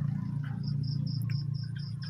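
A run of about seven short, high chirps at one pitch, evenly spaced at about four a second, over a steady low hum.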